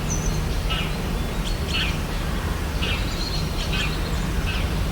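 Birds chirping: a series of short, high chirps at irregular intervals, with a brief thin whistle at the start, over a steady low background rumble.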